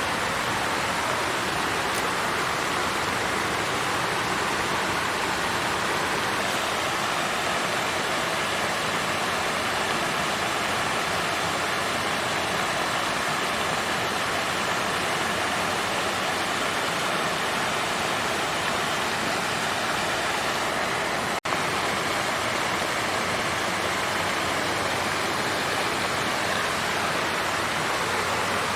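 Water fountain flowing in a steady, even splash, with a momentary break in the sound about three-quarters of the way through.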